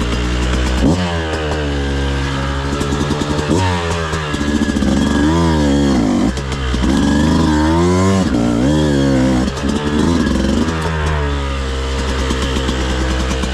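Beta 200RR two-stroke dirt bike engine revving up and down over and over, a series of rising and falling revs from about a second in until near the end, over a steady low engine drone.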